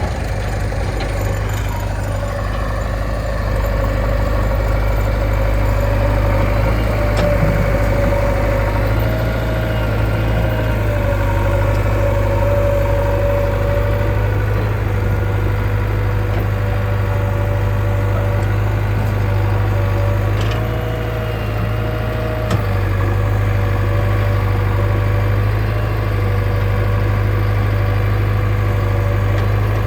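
Heavy diesel engine running steadily at working revs, its pitch rising slightly now and then as it takes load, with a few short knocks.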